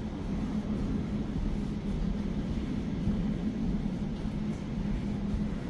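Elizabeth line Class 345 train running: a steady rumble with a low, steady hum.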